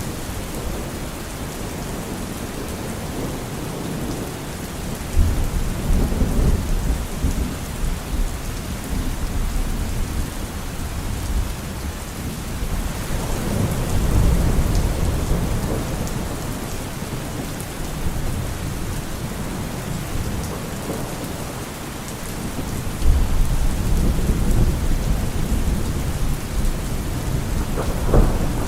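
Steady heavy rain with thunder rumbling low three times, in long rolls. A few faint sharp crackles near the end.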